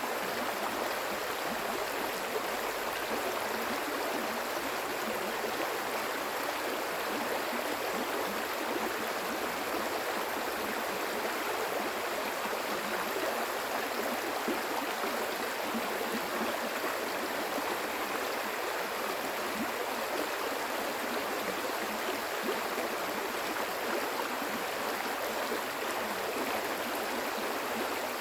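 Steady rush of flowing stream water, even and unbroken, with no other sound standing out.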